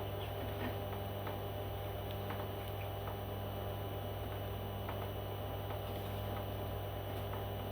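A steady electrical hum with faint, irregular small clicks and ticks scattered through it.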